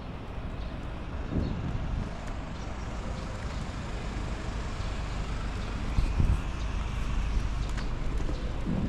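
Wind buffeting the microphone of a riding cyclist, a steady low rumble with gusts swelling about a second and a half in and again around six seconds in.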